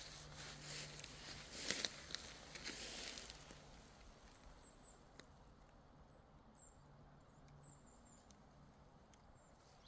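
Footsteps crunching on the forest floor for the first three seconds or so, then quieter, with a few faint high chirps.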